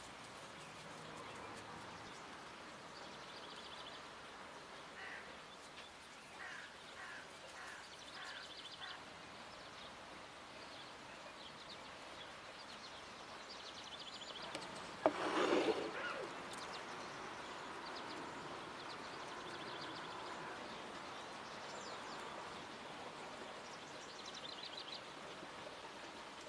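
Small birds chirping in short high trills every few seconds over faint outdoor background noise. About halfway through there is one sudden, louder clatter lasting about a second.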